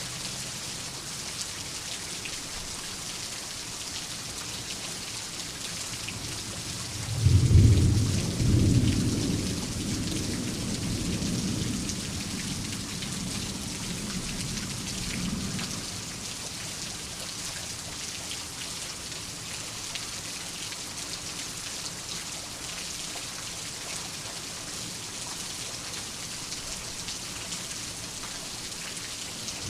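Steady rain falling, with one thunderclap about seven seconds in. The thunder swells twice in quick succession, then rolls away over several seconds.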